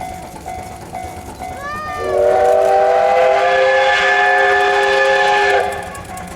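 Steam whistle of the C12 66 tank locomotive blowing one long, steady blast of several tones together, starting about two seconds in and lasting nearly four seconds. Background music with soft repeated notes plays under it.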